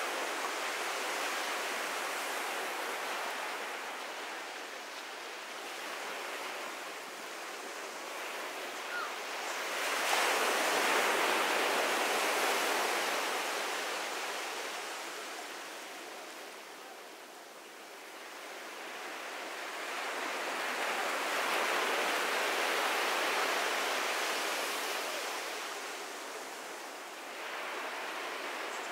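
Ocean surf washing onto the beach as a steady rushing hiss that rises and falls, swelling with a larger wave about ten seconds in and again about twenty seconds in.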